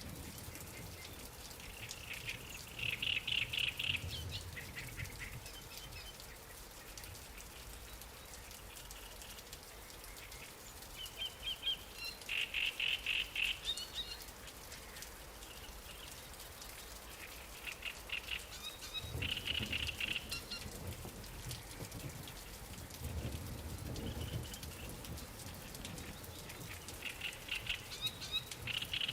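Light rain pattering steadily, with a bird singing a short, rapid trill of repeated chirps four times, about every seven to eight seconds.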